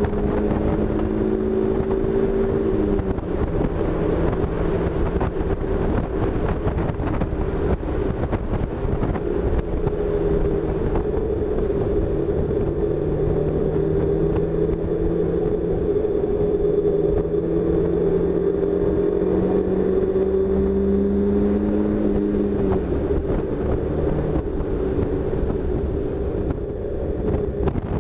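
1999 Mazda Miata's 1.8-litre four-cylinder engine running hard at track speed, heard from the open cockpit over wind and tyre noise. Its pitch drops about three seconds in, climbs slowly through the middle, and drops again near the end.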